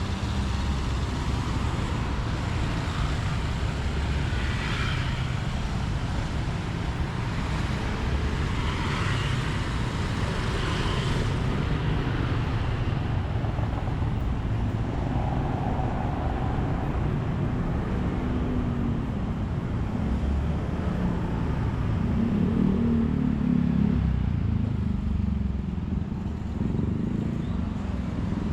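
Road traffic: a steady rumble of motor vehicles passing, with an engine's pitched hum growing louder and then fading about three-quarters of the way through.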